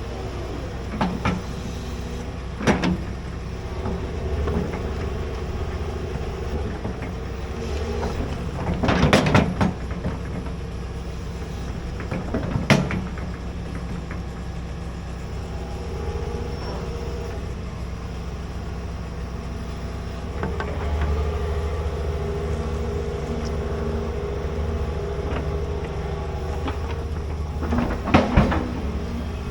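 Large hydraulic excavator running steadily while digging a trench, its engine rising under load about twenty seconds in, with several sharp knocks, the loudest about nine seconds in and near the end.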